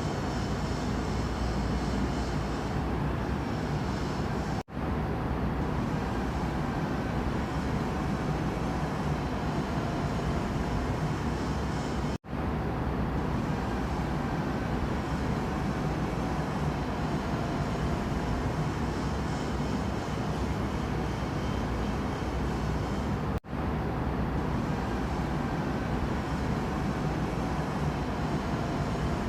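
Steady rumbling noise, strongest in the low end, dropping out for a split second three times.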